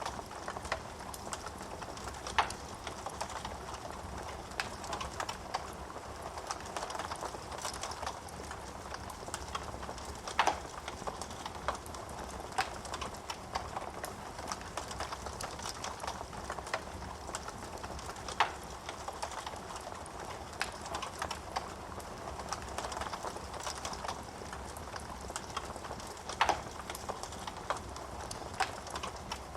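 Wood fire crackling in a fireplace: a steady hiss of burning logs with frequent small snaps and a few louder pops spaced several seconds apart.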